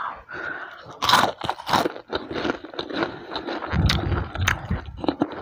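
Close-miked biting and chewing of crispy fried chicken coating. Sharp crunches come about a second in and again shortly after, followed by a run of smaller crackling chews.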